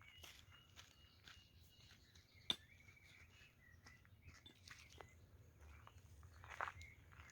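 Faint woodland birdsong: scattered short, high chirps from small birds, with a sharp click about two and a half seconds in and a few soft rustles.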